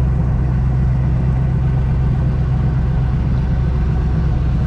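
Airboat engine and propeller running steadily at low speed, a constant low drone.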